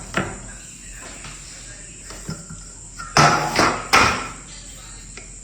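A sharp knock, then a louder run of three or four knocks and clatter about three to four seconds in.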